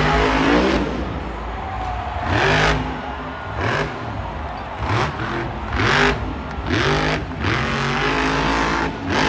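Monster truck engine revving hard over and over, its pitch climbing in a series of short surges about once a second.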